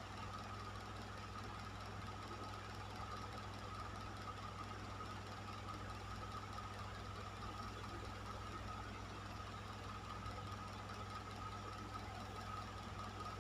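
Electric fan running steadily: an even rush of air over a low motor hum, with a thin steady tone above it.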